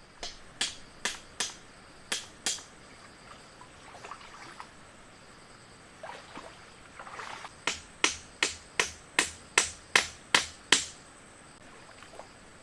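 A series of sharp knocks, like tool blows on wood: a few spaced strikes, then a quicker run of about eight at roughly two to three a second. A steady high insect buzz runs underneath.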